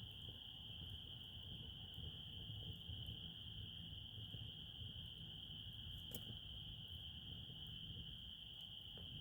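Crickets in a steady chorus: one continuous high trill that never breaks, with a faint click about six seconds in.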